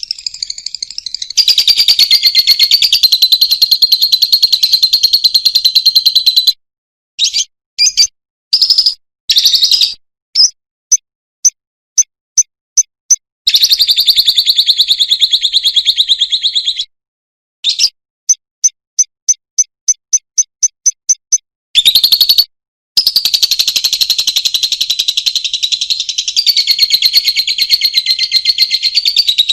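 Lovebird chattering in long, shrill, high-pitched trills lasting several seconds each (the drawn-out 'ngekek' song). These are broken up by runs of short sharp chirps, about three a second near the middle and then faster, about five a second. It is a recorded lovebird song track of the kind played to train cage birds.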